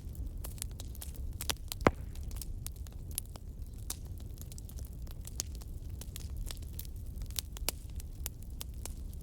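Wood fire crackling in a fireplace: irregular pops and snaps over a low steady rumble, with one loud pop about two seconds in.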